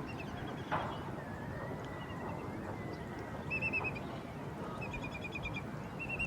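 Birds calling in quick runs of short, clipped chirps, each run lasting about half a second to a second and repeating through the second half, over a steady background hiss.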